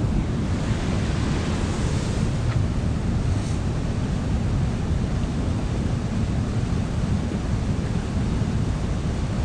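Steady low rushing noise of wind buffeting the GoPro's microphone.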